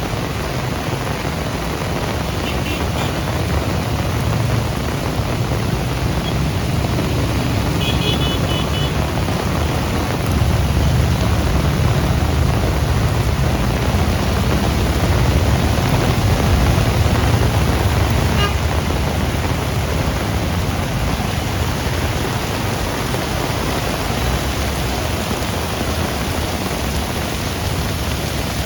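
Heavy rain falling steadily, with a low rumble that swells in the middle and then fades. A few faint, short high pips sound near the start and again about eight seconds in.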